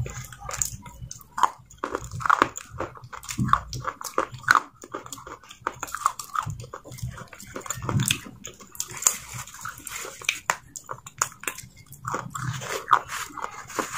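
Close-up wet mouth sounds of chewing a mouthful of soft grey paste: irregular sticky smacks and clicks of lips and tongue, with squelches of fingers scooping the paste.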